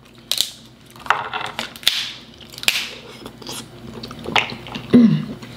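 Close-miked eating sounds of a seafood boil: chewing and wet mouth sounds, with scattered short clicks and snaps as crab and shrimp shells are pulled apart by hand.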